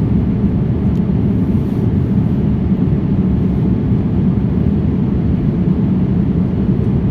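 Steady low rumble of a jet airliner's cabin with the engines running, heard from a window seat.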